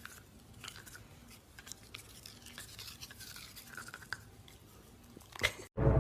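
Faint, irregular scratching and clicking, like small brushing or chewing sounds, with a sharper click shortly before the end.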